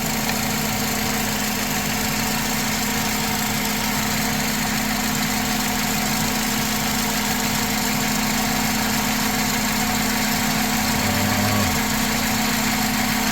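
2004 Honda Accord engine idling steadily with an even, unbroken hum, running again after a no-start.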